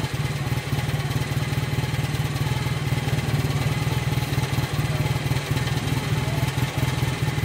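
Vintage Jawa 350 OHC motorcycle engine idling steadily, with a fast, even beat.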